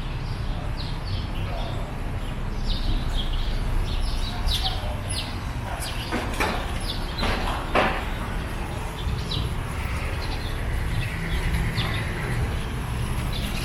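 Small birds chirping repeatedly, short high notes over a steady low rumble. A few sharper, louder sounds come about halfway through.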